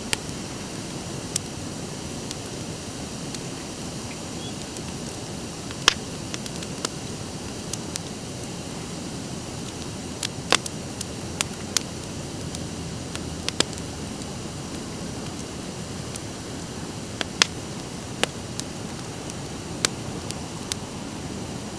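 Driftwood fire burning with a steady low rush of flame, broken by sharp, irregular crackles and pops, the loudest a few seconds in, halfway through and near the end.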